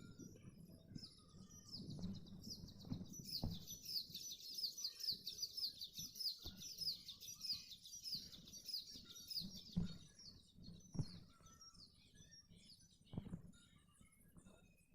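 A bird singing a long, rapid run of high chirps that fades out after about ten seconds, with a few soft low thumps scattered through it.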